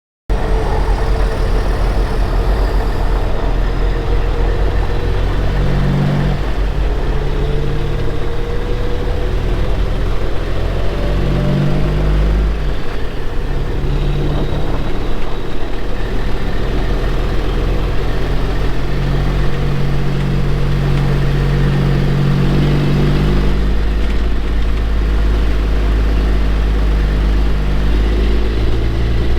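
Semi truck's diesel engine running under way, a steady low note that changes pitch several times as it goes through the gears, with a faint whine rising slowly over the first dozen seconds.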